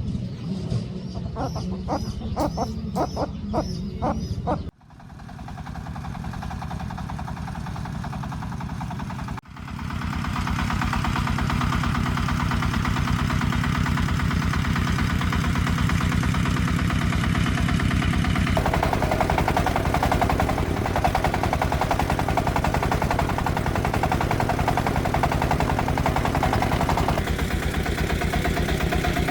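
Single-cylinder diesel engine of a công nông farm vehicle running with a fast, even chugging beat, cut off abruptly twice, about five and nine seconds in, before running on steadily.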